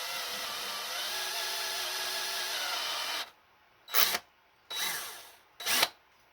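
Electric drill running steadily under load as a reverse drill bit bores into a broken bolt in an engine block, stopping about three seconds in. Then three short bursts of the drill, each spinning up sharply and winding down.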